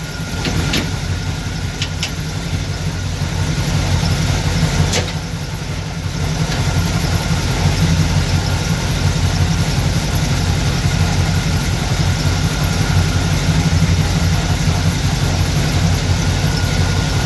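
GM 454 big-block V8 in a pickup idling steadily, with a few sharp clicks in the first five seconds.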